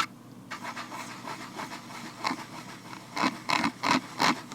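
Vinyl-latex gloved hands rubbing and scratching close up. It is soft and rustling for the first few seconds, then a run of louder, separate scratchy strokes starts about three seconds in.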